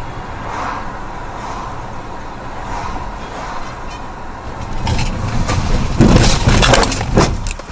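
Car driving, heard from inside the cabin: steady road and engine noise that grows louder about five seconds in, peaking in a loud, rough burst of noise about six seconds in that lasts about a second.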